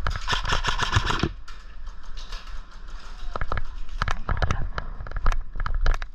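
A dense run of sharp clicks and knocks over a rustling hiss for about the first second, then scattered clicks and knocks.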